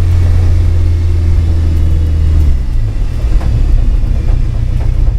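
Porsche 944 engine heard from inside the car, a steady low drone that drops away about two and a half seconds in. After that comes an uneven rumble with a few knocks, as the car runs on without the engine's steady note during its engine failure.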